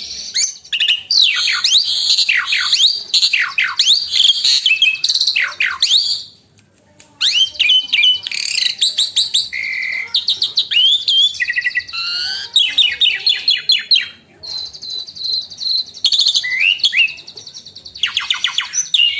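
Asian pied starling singing vigorously: a varied song of steep falling whistles, fast rattling trills and repeated chirps, broken by short pauses about six and fourteen seconds in.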